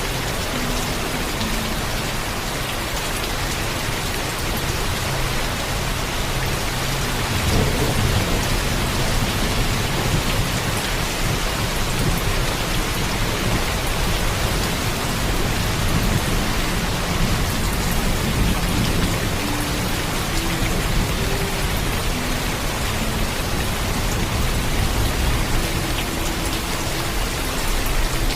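Heavy rain falling steadily, with low thunder rumbling in from about seven seconds in and going on under the rain.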